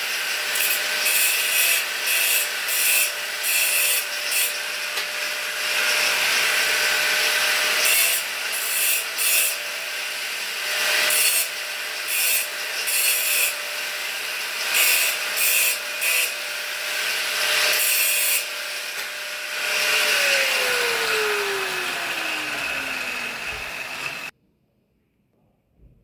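An angle grinder running against metal with a steady motor tone and repeated scraping surges as the disc is worked over the piece; about 20 seconds in it is switched off and the tone falls as the disc spins down, then the sound cuts off.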